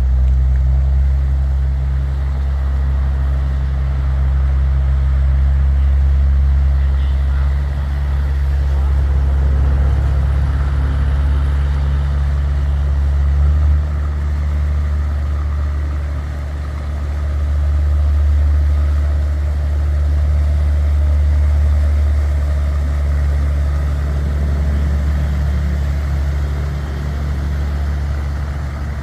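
Boat engine running steadily as an empty barge heads upstream, a deep drone that swells and eases slightly in loudness.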